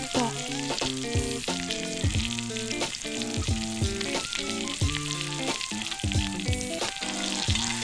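Steak frying in butter with sliced garlic in a pan over a campfire: a steady, even sizzle. Background music with a regular beat plays over it.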